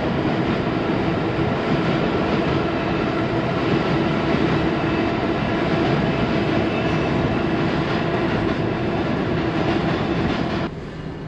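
A train running across a nearby steel railroad bridge: a loud, steady clatter with a low held tone, dropping off sharply near the end.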